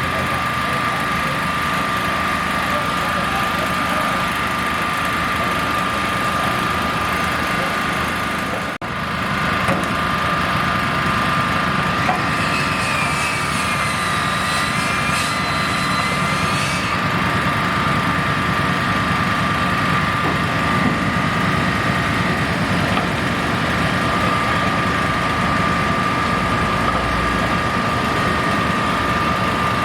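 Steady engine and machinery noise with a constant high-pitched whine, broken by a brief dropout about nine seconds in. A faint wavering higher tone rides over it for several seconds in the middle.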